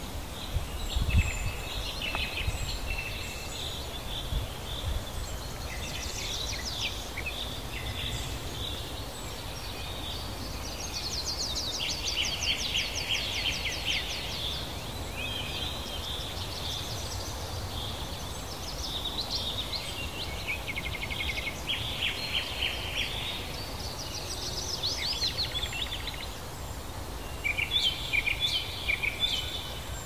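Several songbirds singing and calling at once, overlapping chirps and twittering with a fast trill about halfway through, over a steady low rumble.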